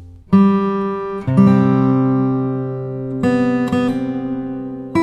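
Background music: acoustic guitar strumming slow, ringing chords, a new chord struck about every one to two seconds and left to ring.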